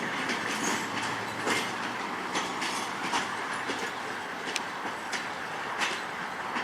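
Train cars rolling past, a steady rumble and rush with sharp wheel clicks over rail joints about once a second.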